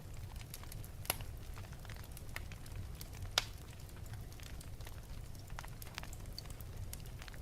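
Wood fire burning in an open fireplace: scattered crackles and small snaps over a low rumble, with two sharper pops, about a second in and about three and a half seconds in.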